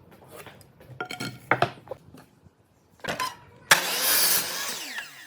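A few metallic clinks and a knock, then a power tool starts suddenly, runs briefly and winds down with a falling pitch.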